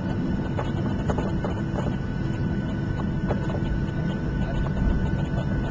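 Cabin noise of a Boeing 737-700 taxiing to the gate: a steady low rumble of the idling engines and rolling airframe, with a faint steady whine and occasional light knocks and rattles.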